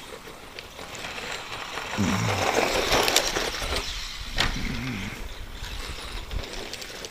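ECX Circuit 2WD stadium truck with its stock brushed motor running on a rough dirt track. The motor and drivetrain run with the tyres on dirt, and the sound swells louder about two seconds in as the truck passes close. There is a sharp knock about four seconds in.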